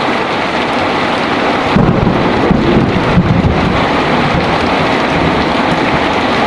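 Heavy rain falling steadily, with a low rumble of thunder starting a little under two seconds in and lasting about two seconds.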